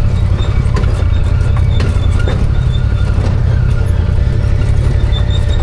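Arctic Cat Wildcat 1000 side-by-side's V-twin engine and drivetrain running steadily under way, a continuous low drone, with scattered clicks and rattles from the vehicle over rough trail.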